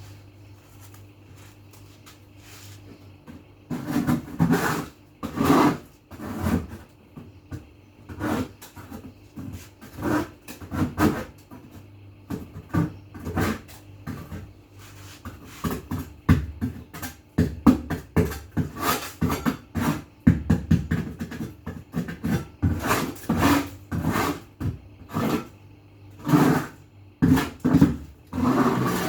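Irregular scrubbing and rubbing strokes with handling noise, starting about four seconds in, over a steady low hum.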